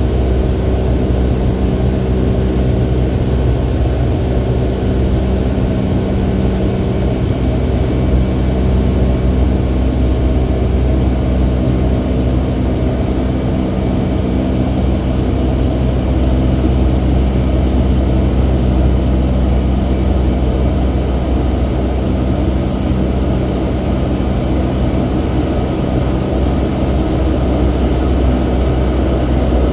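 Cabin noise of a Boeing 757 with its twin turbofan jet engines at takeoff power: a steady, loud low drone with several steady hum tones over it.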